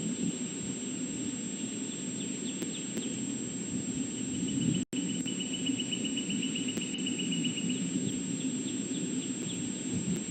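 Steady outdoor background noise with a low hum and a constant thin high whine, with scattered high chirps and, through the middle, a fast even high-pitched trill. The audio cuts out for an instant about five seconds in.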